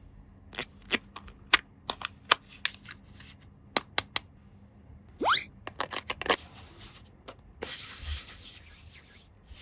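Plastic toy parts handled close up: a run of sharp clicks and taps, a short rising squeak about five seconds in, then a few seconds of rustling and rubbing.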